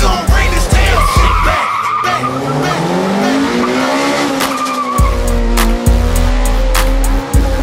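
A car engine revving up hard as the car accelerates, with tyre squeal, mixed with a hyphy hip-hop track whose heavy bass drops out for a few seconds in the middle.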